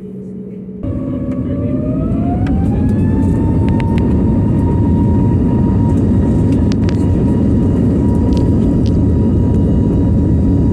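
Jet airliner engines spooling up to take-off thrust, heard from inside the cabin. A loud roar begins abruptly about a second in, with a whine that rises in pitch over the next few seconds and then holds steady, and a few light cabin rattles on top.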